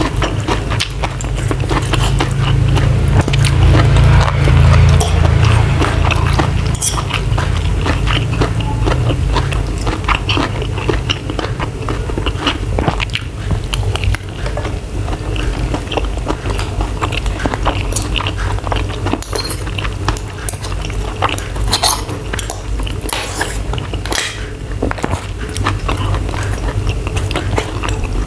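Close-miked chewing and biting of rice and seafood, with wet mouth sounds, loudest a few seconds in. Short clicks of a metal spoon and fork against the plate are scattered throughout.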